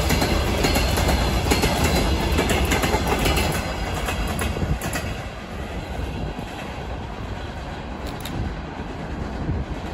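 Freight train wagons rolling past, their wheels knocking over the rail joints with a heavy rumble. About four to five seconds in the sound falls away as the end of the train goes by, leaving a quieter rumble as it moves off.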